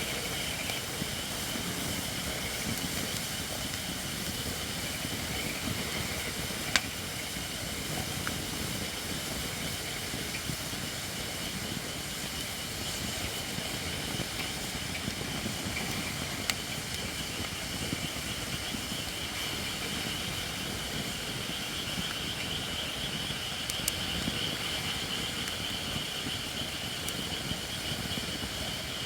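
Campfire of Japanese white oak logs burning with a steady hiss, which grows stronger near the end: moisture steaming out of firewood that is not yet dry enough. A few single sharp pops from the burning wood.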